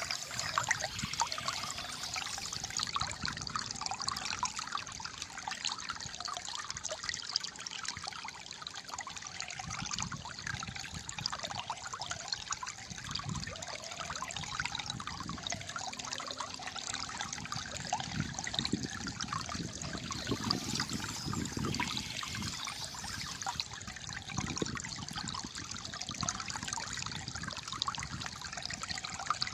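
Shallow water flowing and gurgling steadily over stones, a continuous trickling babble.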